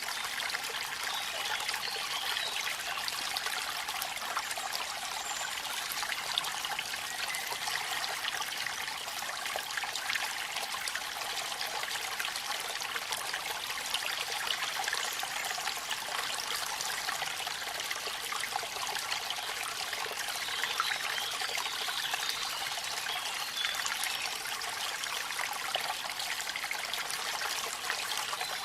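Rain and a waterfall: a steady, even rush of falling water with a fine crackle of small drops and splashes, mostly high-pitched with little low rumble.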